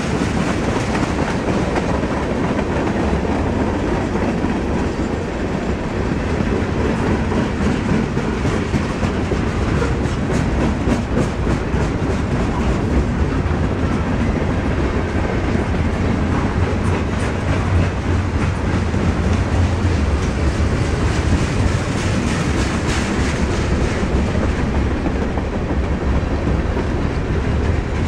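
Freight train's boxcars and tank cars rolling past: steel wheels on rail make a loud, steady rumble, with clacks as the wheels cross the rail joints.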